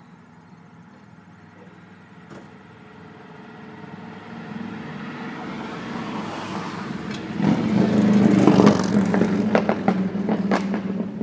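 A motor vehicle's engine growing louder over several seconds, loudest about eight seconds in and then easing off, like a car passing by. A run of sharp clicks and knocks comes near its loudest point.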